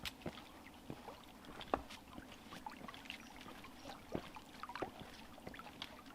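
Footsteps through shallow water on a flooded trail: faint, irregular small splashes and light knocks.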